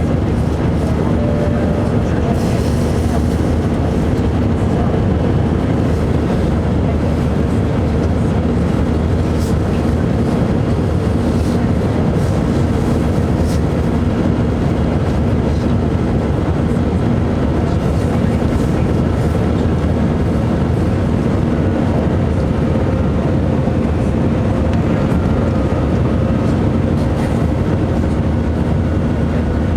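Inside the cabin of an Airbus A319 airliner: the steady drone of its jet engines and rushing air, with a low rumble and an even hum.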